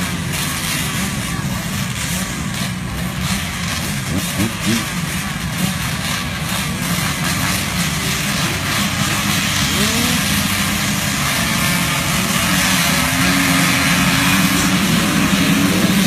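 Several vintage motocross bikes racing, their engines revving and rising and falling in pitch as they work around the track. The engine noise grows louder near the end as bikes come closer.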